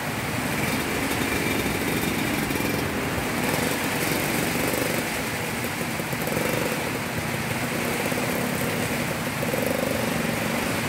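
Heavy rain pouring down onto a wet road, with a small motorcycle engine running beneath it.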